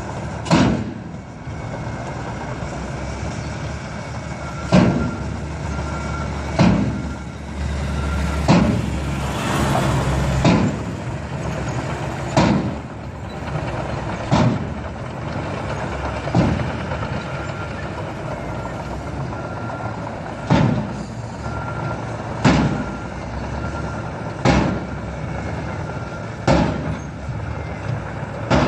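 Truck running steadily, with a loud sharp bang about every two seconds, a dozen or so in all with one longer pause around the middle.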